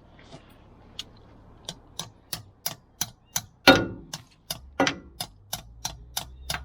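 Hammer striking the head of a socket wrench and extension in a steady series, about three sharp metallic knocks a second, with one heavier blow midway. The blows are meant to shock a stuck bolt loose.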